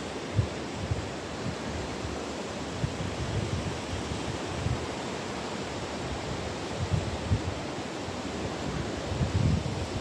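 Waves washing on the Gulf of Finland shore, a steady surf noise, with wind buffeting the microphone in irregular low gusts, strongest near the end.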